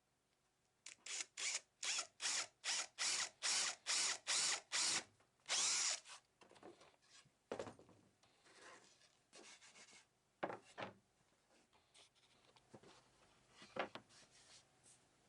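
Rhythmic scraping strokes of a tool on wood: about a dozen short, even strokes at roughly two and a half a second, then one longer stroke, then scattered lighter scrapes and a few knocks.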